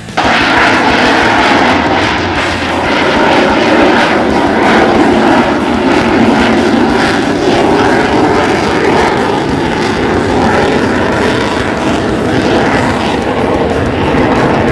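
Loud, steady jet roar of an F-35 Lightning II's single Pratt & Whitney F135 afterburning turbofan in flight. The roar starts abruptly at the opening.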